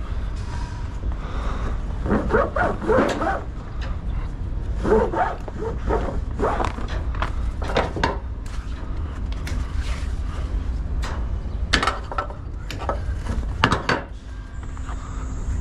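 Low, steady rumble of a semi truck's diesel engine, with scattered short clatters and brief pitched calls over it, loudest about two to three seconds in and again near the end.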